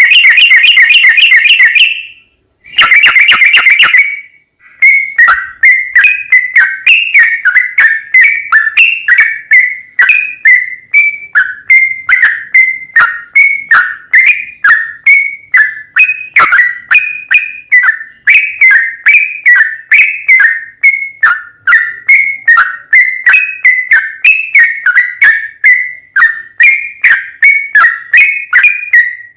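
Recorded yellow-vented bulbul (trucukan) song played very loud. A dense buzzing trill runs for about four seconds with a short break, then gives way to a long, even run of short chattering notes, about two a second, each dropping in pitch.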